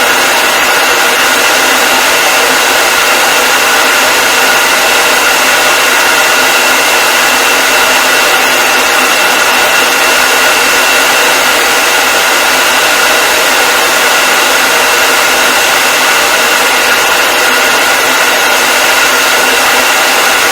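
Hair dryer running continuously: a steady loud rush of air with a constant motor whine over it.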